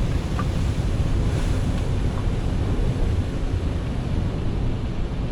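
Ocean swell surging and breaking against a rock ledge, with wind buffeting the microphone as a steady low rumble.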